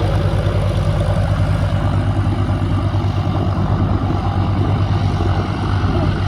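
An engine idling steadily: a low, even engine note with a fast, regular pulse that holds at one pitch.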